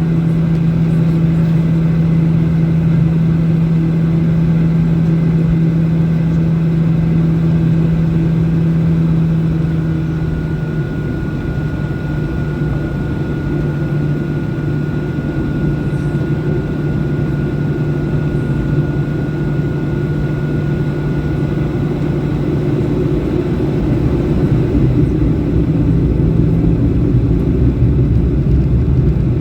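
Boeing 737-800 cabin noise: the steady drone of its CFM56 jet engines and rushing air heard from inside the cabin. The engine hum steps slightly lower in pitch about a third of the way through, and a faint high whine sits over it through the middle.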